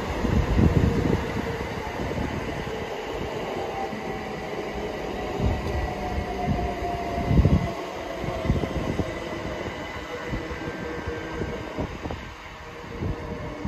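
Electric train moving at a station platform: a steady running rumble with a faint whine that falls slightly in pitch, and several heavy low thumps, the loudest about half a second in and about seven and a half seconds in.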